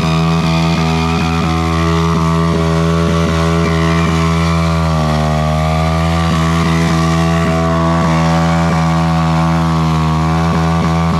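Honda Grom's small single-cylinder four-stroke engine held at high revs, the exhaust note sagging briefly and climbing back twice, about halfway through and near the end. This sustained hard running is what heats the exhaust red hot.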